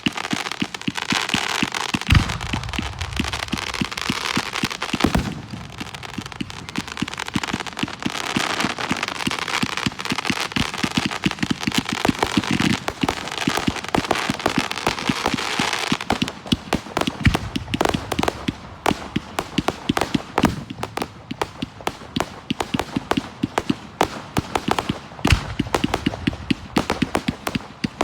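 Aerial fireworks show: about five heavy shell bursts boom over continuous crackling. The crackling turns into a dense, rapid popping in the second half.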